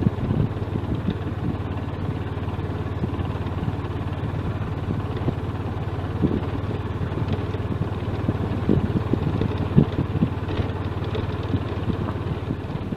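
A car being driven: steady engine hum and road noise, with small knocks and bumps scattered through it.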